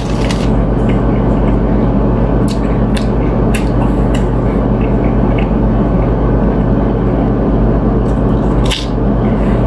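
A steady low hum and rumble throughout, with a few soft mouth clicks of close-miked chewing.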